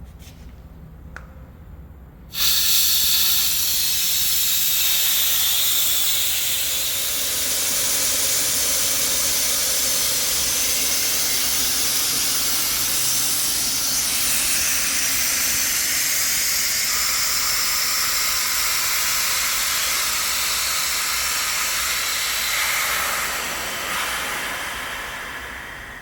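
Compressed air blowing out in a loud, steady hiss that starts suddenly about two seconds in and fades away near the end.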